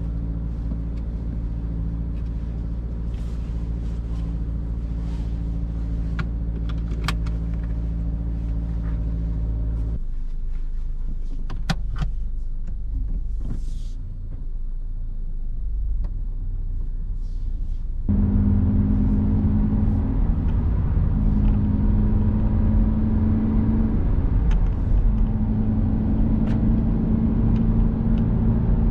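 2022 Subaru BRZ's 2.4-litre flat-four engine running with road rumble while driving. The sound drops off abruptly about ten seconds in and stays quieter for several seconds. It then returns louder, with the engine note shifting in steps as it pulls.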